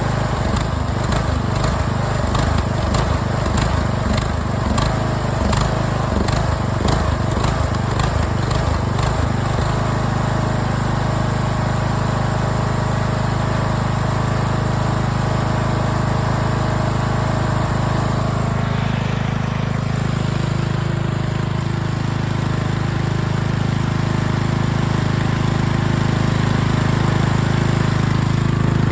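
Craftsman LT1000 riding mower's replacement small engine running. It sounds choppy and uneven for roughly the first ten seconds, then runs steadily, and its tone shifts about two-thirds of the way in.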